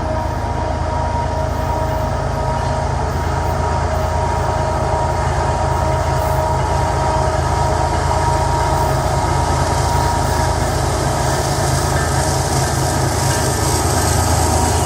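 Diesel-electric freight locomotives hauling a long freight train, engines running steadily with a deep rumble and a few steady tones. The sound gradually gets louder.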